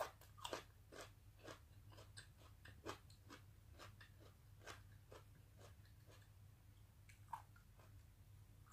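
Faint chewing of food: soft, irregular mouth clicks, closely spaced at first, then sparser, with one sharper click about seven seconds in.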